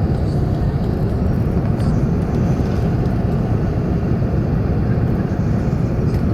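Steady low rumble of cabin noise inside an Airbus A380 airliner on final approach, heard from the upper deck: engine and airflow roar, even and unbroken.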